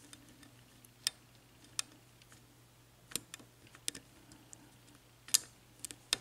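Small, sharp metallic clicks of a lock pick working the pins of a Yale mortise cylinder lock under light tension during single-pin picking: about six scattered ticks at uneven intervals.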